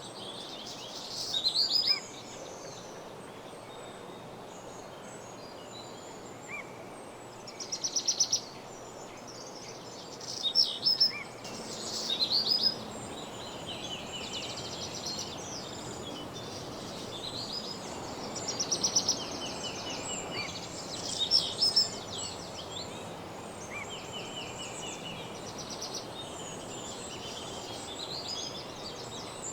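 Songbirds singing in a dawn chorus: short high phrases and rapid runs of notes, several loud bursts over a steady background hiss.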